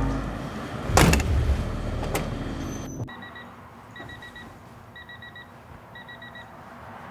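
A heavy thump about a second in and a lighter click a second later over a fading low rumble. The sound then cuts abruptly to an electronic beeper sounding four quick high beeps, once every second.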